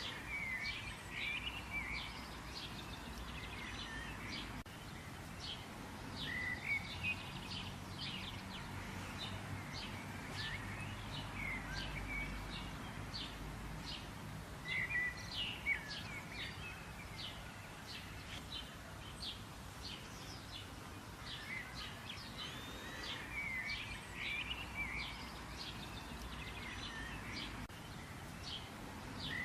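Birds singing outdoors: many short, quick chirps and trills from more than one bird, over a steady low background rumble.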